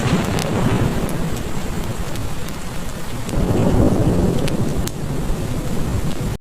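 Heavy rain falling steadily under a low, rolling rumble of thunder that swells a little past the middle. Occasional sharp crackles from a wood fire.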